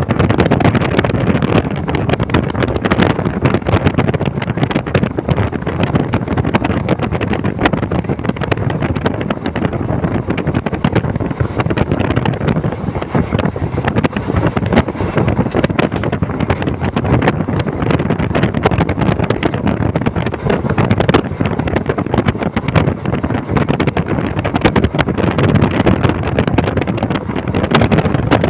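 Train in motion: steady rumble and clatter of wheels on the track, with wind buffeting the microphone.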